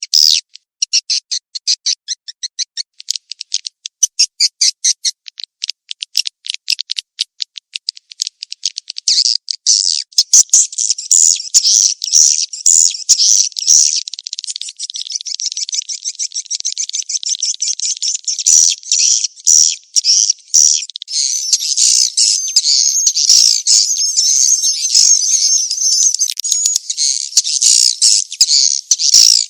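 Swiftlet call recording of the 'kejar kawin' (mating-chase) type, played to lure swiftlets into a swiftlet house. It starts as rapid, evenly spaced high clicking chirps and turns about ten seconds in into dense, continuous high twittering.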